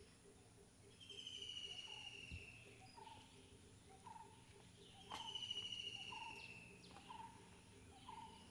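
Birds calling: a long, slightly falling whistle twice, and short lower notes about once a second, over faint steady background noise.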